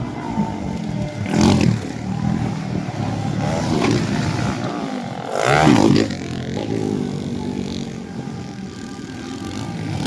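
Motocross dirt bike engines revving and passing, rising and falling in pitch, loudest about a second and a half in and again near six seconds.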